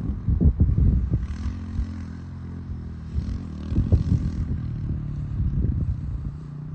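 Honda CRF125 dirt bike's small single-cylinder four-stroke engine running. Its pitch drops as it comes off the throttle about a second and a half in, then it holds a steady lower note, with uneven low buffeting over it.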